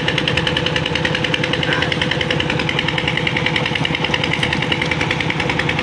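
Old tractor's diesel engine running steadily under load, with a rapid even firing beat.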